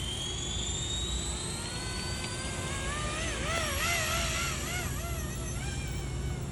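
Blade 235 CP RC collective-pitch helicopter's electric motor and rotor spooling up: a high whine that rises steadily over the first couple of seconds, then wavers up and down in pitch as the rotor speed shifts under load, over a steady low hum.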